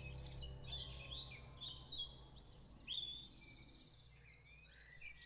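Several small songbirds singing, with quick chirps, trills and warbles overlapping throughout.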